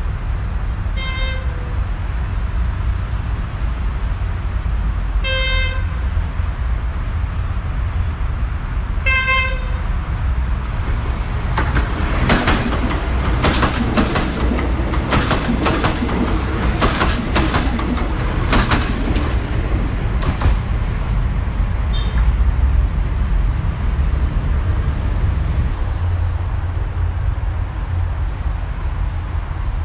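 A Philippine National Railways train horn gives three short single-note blasts about four seconds apart. Then comes a run of sharp clacks lasting roughly nine seconds as the train's wheels cross rail joints, over a constant low rumble.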